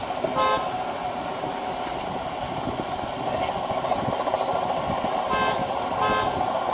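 Steady vehicle and road noise, with a few short pitched beeps or toots: two near the start and a couple more near the end.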